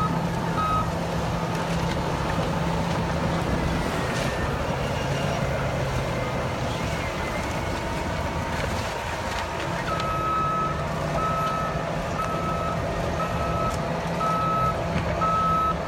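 Caterpillar D9 bulldozer's diesel engine running steadily, with its reversing alarm beeping about once a second; the beeping stops just after the start and starts again about ten seconds in.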